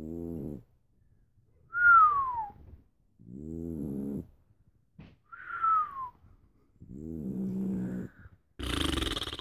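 Sleeping pug snoring in a steady rhythm: a low, rattling snore on each in-breath alternates with a high whistle that falls in pitch on each out-breath, about three breaths in all, with a harsher snort near the end.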